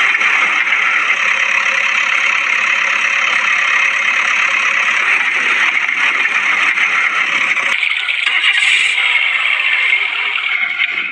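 A mini truck's engine running, with rattling. The sound changes abruptly about three quarters of the way through.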